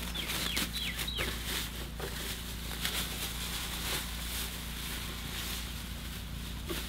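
Small birds chirping in several short falling notes in the first second or so, over a steady low hum. A few light knocks and clicks come from the blower and its packing being handled.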